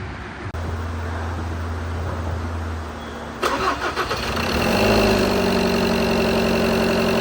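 Freshly rebuilt Ford 2.2 TDCi four-cylinder diesel engine cranking on the starter for about three seconds, catching with a few uneven firings about three and a half seconds in, then settling into a steady idle.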